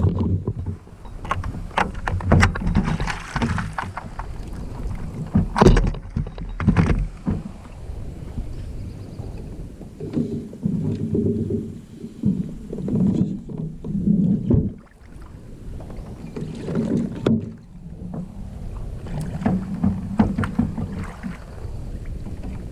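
Fishing kayak on the water: uneven low rumbling from the hull with scattered sharp knocks, the loudest about six seconds in.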